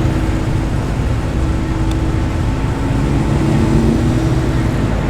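Car engine running at low speed as it rolls in, a steady low rumble with a tone that rises slightly near the end.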